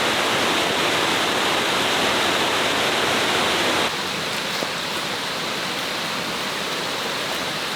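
Waterfall's water rushing steadily, dropping a little in level about halfway through.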